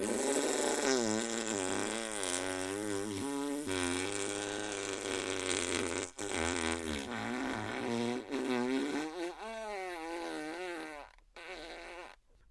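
Comedic fart sound effect: one long, buzzy, pitched blare whose pitch wobbles up and down, with a brief break about six seconds in, dropping away near the end.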